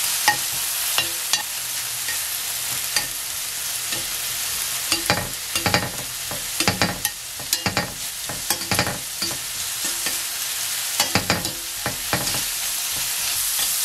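Shrimp and minced garlic sizzling in olive oil in a nonstick frying pan, with repeated clicks and taps of kitchen tongs turning the shrimp against the pan, busiest through the middle and again near the end.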